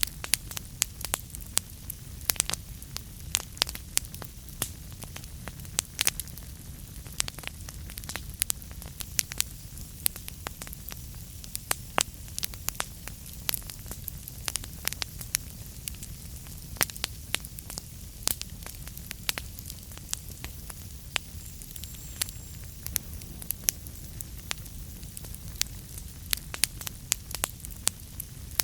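Wood fire crackling in a fireplace: frequent sharp irregular pops and snaps over a steady low rumble and hiss.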